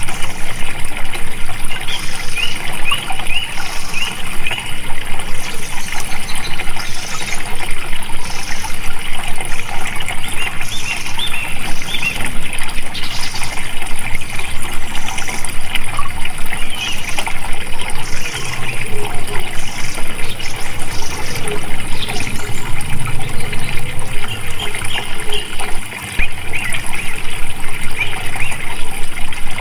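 Water flowing and splashing steadily, with many short bird chirps over it.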